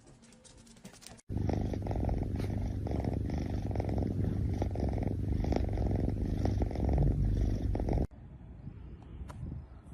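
A domestic cat purring close to the microphone: a loud, low, fast-pulsing rattle that starts suddenly about a second in and cuts off suddenly near the end.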